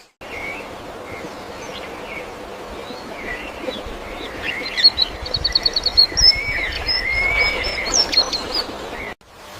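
Wild birds calling over a steady background hiss: scattered short whistled chirps, a quick trill of rapid high notes about five seconds in, then busier slurred whistles until the sound cuts off abruptly near the end.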